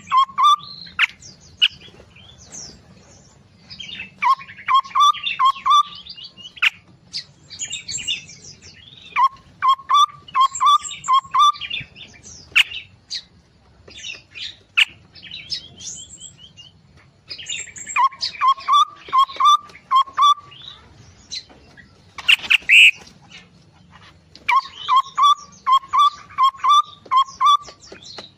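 Aviary songbirds singing. A run of four to six quick, even whistled notes comes back every few seconds over busier, higher chirping, with one louder, harsher call about three-quarters of the way through.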